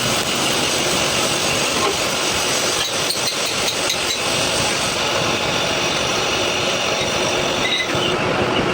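Workshop machinery running steadily, with a quick run of light clicks about three seconds in.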